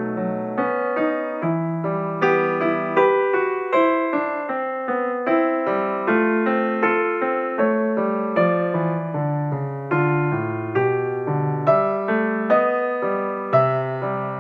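Background piano music: a calm melody of single struck notes over sustained chords, several notes a second, each fading after it is struck.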